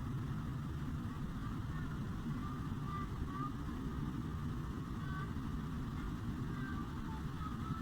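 Waterfall and fast river water rushing steadily, a dense low noise with no break. Faint, short high-pitched calls come and go over it.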